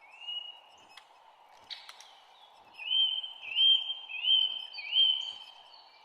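Bird calls over a steady background noise: one rising whistled note near the start, then four louder rising chirps in quick succession in the second half. A short sharp click is heard about two seconds in.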